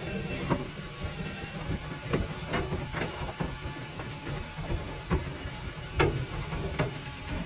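Dryer-vent cleaning equipment running steadily inside a duct packed with heavy, clumpy lint. About nine irregular knocks and scrapes come through as the tool works the clumps loose.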